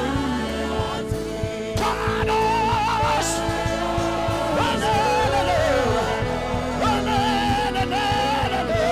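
Live gospel worship music: singing with vibrato over a band with a steady beat.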